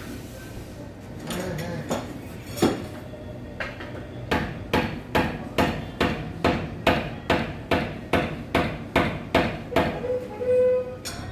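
A few scattered knocks, then a steady run of about fourteen sharp hard knocks at roughly two a second, like hammering, which stops about ten seconds in.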